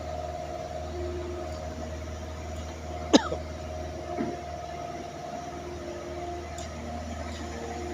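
Excavator's diesel engine running steadily, with one sharp, loud clank about three seconds in and a smaller knock about a second later.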